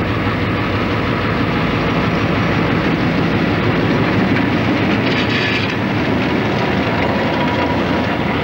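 Diesel-hauled passenger train running slowly on old narrow-gauge track: a steady rumble of wheels and cars with the locomotive's engine hum underneath, and a brief higher-pitched hiss about five seconds in.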